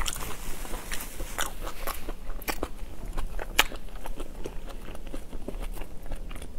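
Close-miked mouth chewing: wet smacks and crisp crunches with scattered sharp clicks, the loudest about three and a half seconds in.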